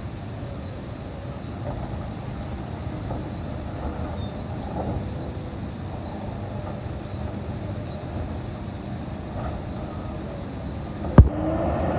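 Garbage truck engine running steadily with a low rumble, and one sharp, very loud bang near the end.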